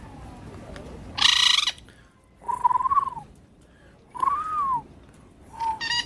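Caged parrots calling: a loud harsh screech about a second in, then two arching whistled calls and a shorter squawk near the end.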